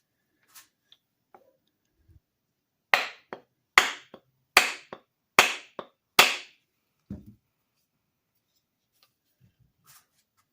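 A run of five sharp knocks about 0.8 s apart, each but the last followed by a lighter one, then a single duller thud.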